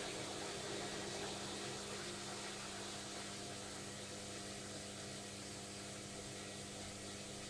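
Logik washing machine on its final spin, drum and motor turning at steady speed: a constant hum over an even rushing noise.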